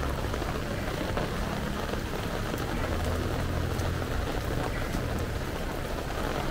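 Steady rain falling, an even hiss with a low rumble underneath in places.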